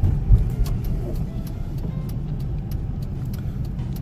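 Road noise inside a moving car: a steady low rumble of engine and tyres, with one thump about a third of a second in and faint, irregular light ticks.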